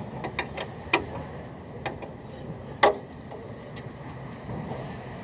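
A few sharp clicks and knocks, the loudest a little under three seconds in, over a low steady rumble.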